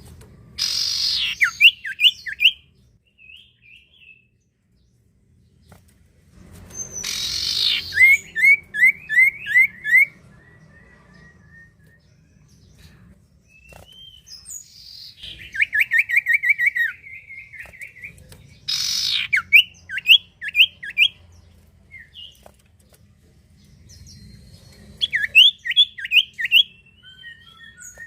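Common iora (sirtu, cipoh) singing. It gives five loud phrases, each opening with a harsh rasping note and followed by a quick run of five to eight sweeping whistled notes.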